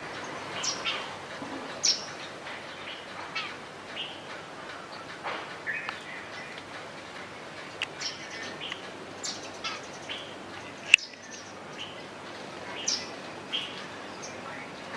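Small birds chirping: many short, scattered calls and quick sweeping notes over a steady faint hiss. One sharp click about eleven seconds in.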